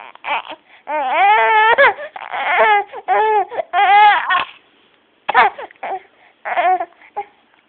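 A baby fussing and crying: a string of short, high-pitched wails with pitch bends through the first four and a half seconds, then two briefer cries.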